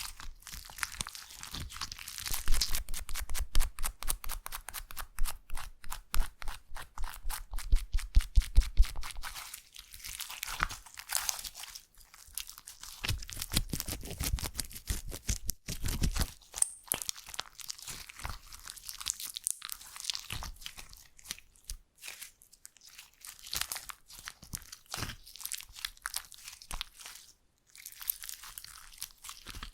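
Slime being squeezed and stretched by hand, with rapid crackling clicks and pops. The clicks are densest and loudest in the first third, then come more sparsely.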